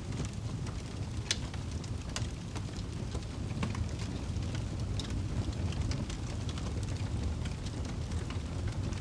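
Wood fire crackling in a fireplace: irregular sharp pops and snaps over a steady low rumble of burning logs, with one louder crack about a second in.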